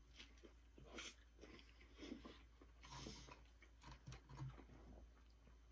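Faint chewing and mouth noises of people eating a burger and fries, with a few soft clicks about a second apart.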